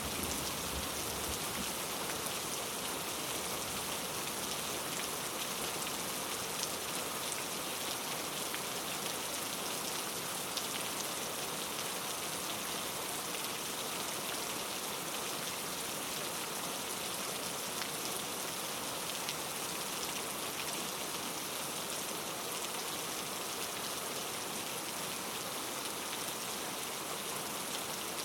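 Steady rain falling and pattering on a surface, an even hiss with many small scattered drop ticks.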